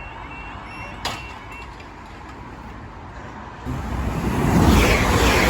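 Level crossing alarm sounding in a fast repeating pattern, which stops with a click about a second in. From about four seconds in a train passes over the crossing, a loud rising rumble and rush of wheels on rail.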